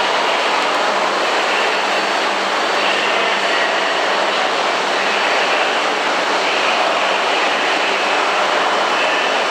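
A steady hum and hiss from a stationary E6-series Shinkansen train's onboard equipment at the platform, with a low, even droning tone and no change in level.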